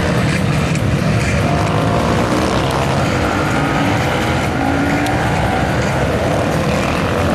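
Supermoto motorcycles racing round the track in practice, several engines revving up and down through the gears as they pass.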